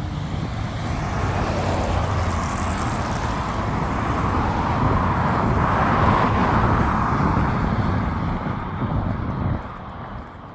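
Road traffic noise: a vehicle passing, growing louder to a peak about six seconds in and dropping away near the end.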